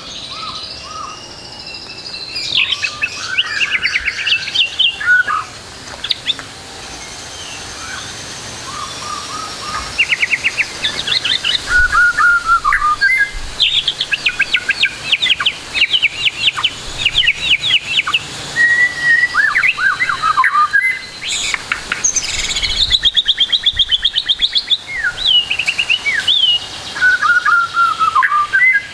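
White-rumped shama (murai batu) singing a long, varied song of rapid chattering trills and short gliding whistled phrases, quieter for a few seconds early on and then loud and dense. The song is of the 'full isian' kind, packed with notes copied from other birds.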